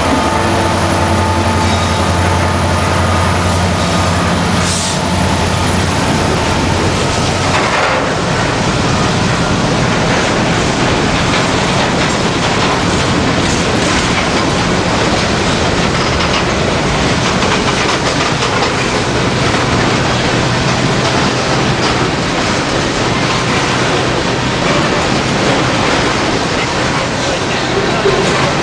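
Train passing close by. A locomotive's engine drone is heard for the first seven seconds or so, then the cars roll past as a steady, loud rolling noise.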